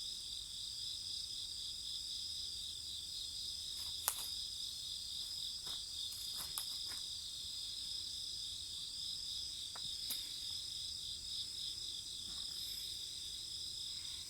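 Insects chirping steadily in a constant high trill, with a few sharp pops and crackles from burning wood in a bonfire, the loudest about four seconds in.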